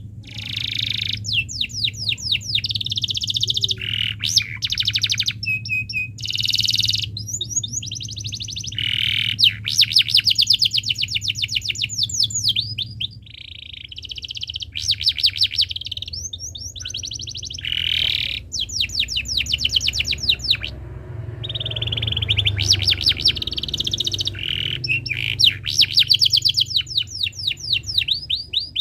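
Domestic canary singing a long song of fast trills and buzzy rolls, with short pauses between phrases, over a low steady hum.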